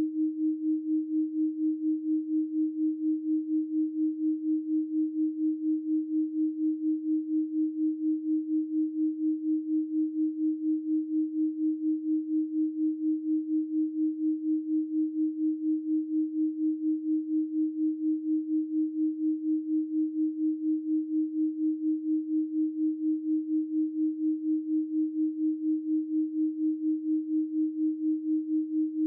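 Electronically generated 312 Hz pure sine tone held steady at one pitch, with an even pulse in loudness a few times a second.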